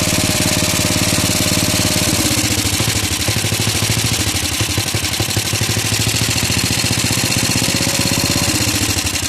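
DM-1K walk-behind tractor engine, a single-cylinder four-stroke, running on a 188F-type carburettor with a centrifugal governor. Its speed drops about two seconds in, slowly picks back up, and drops again near the end.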